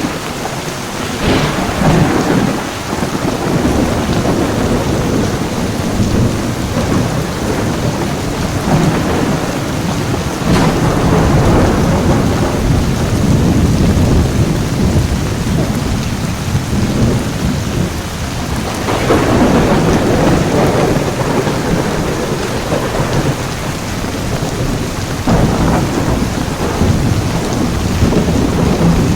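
Heavy rain pouring steadily, with rumbles of thunder that swell up several times: about a second in, around ten seconds, and twice more in the second half.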